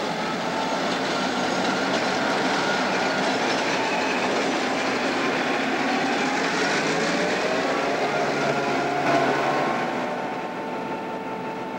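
Diesel freight train passing close by: the locomotives' engines, then the freight cars' wheels clattering over the rails, a steady rumble that eases off near the end.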